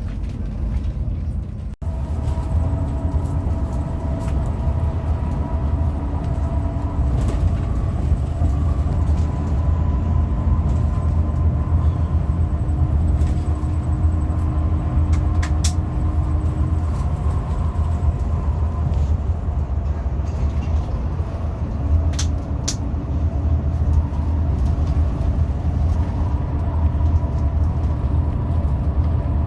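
Hino RM 280 bus under way, with a steady deep engine and road rumble and several faint steady whine tones above it. There is a brief cut-out about two seconds in, and a few sharp clicks or rattles later on.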